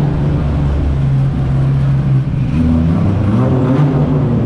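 Car engine idling with a steady low hum, its pitch wavering a little in the second half.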